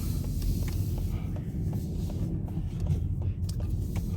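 Steady low rumble of a car heard from inside its cabin, with a few faint light ticks.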